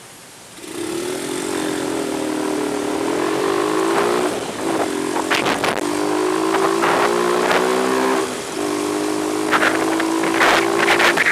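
A vehicle engine starting to run under a second in and running steadily, its pitch wavering slightly and dipping briefly about eight and a half seconds in, with scattered sharp clicks and knocks.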